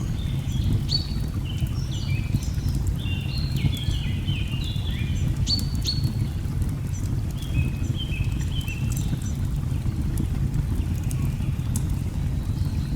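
Steady low rush of a waterfall, with birds chirping and calling in quick short phrases throughout, and light crackles of a log fire.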